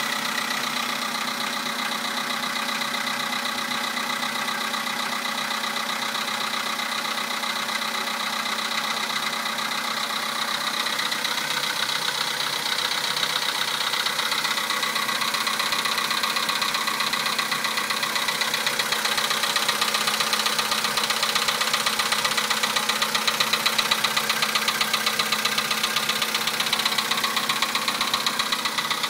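2011 Volkswagen Polo Sedan's 1.6-litre four-cylinder petrol engine idling with a rapid, even knock, an unpleasant engine knock. The sound gets a little louder past the halfway point.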